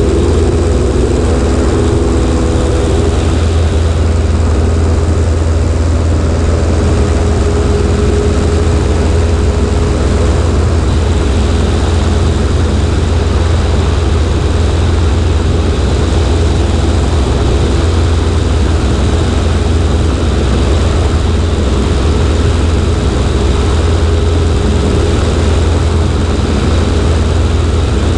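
Cessna 140A's engine and propeller running steadily with an unchanging drone, with rushing air over a microphone mounted on the right wing.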